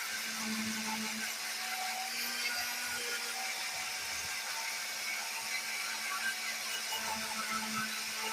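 Small electric power tool running steadily, a constant motor hum under a dense high hiss.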